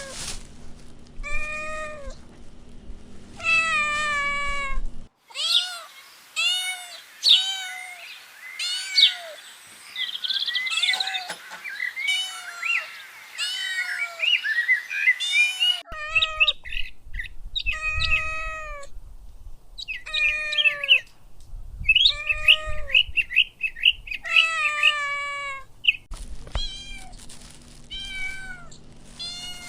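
Kittens meowing over and over in short, high calls that fall in pitch. In the middle stretch several kittens meow at once in a dense, overlapping chorus.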